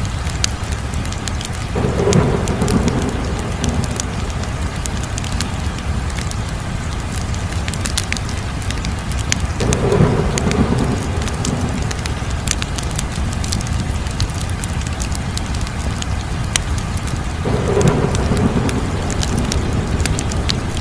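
Crackling fire: a steady low rumble with scattered sharp pops and snaps throughout. A swelling whoosh rises three times, about eight seconds apart.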